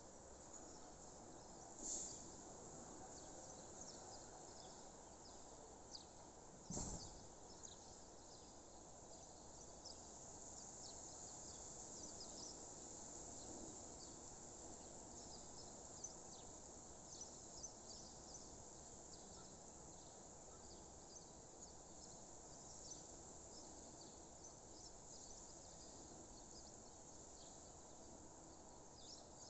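Faint outdoor nature ambience: many short, high chirps of birds and insects scattered over a low, steady background hiss, with a soft low thump about 7 seconds in.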